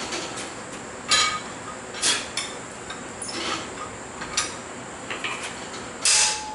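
Steel striking steel at the anvil: about six irregular metallic clanks, spaced about a second apart, some ringing briefly. The loudest comes near the end and leaves a sustained ringing tone. A steady hiss runs underneath.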